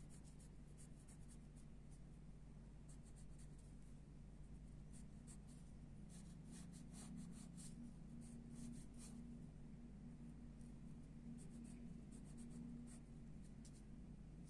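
Pencil sketching on paper: faint, short scratchy strokes in quick clusters, heaviest in the middle, over a steady low hum.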